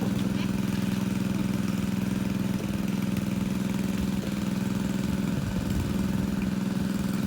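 Engine of a water pump running steadily at constant speed, pumping water out of a fish pond to drain it.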